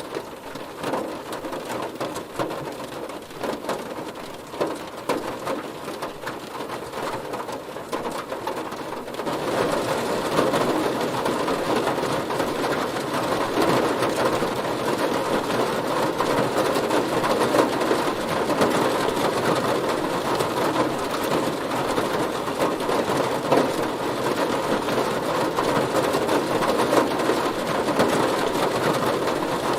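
Heavy rain pattering on a car's body, a dense steady hiss of drops that grows heavier and louder about nine seconds in.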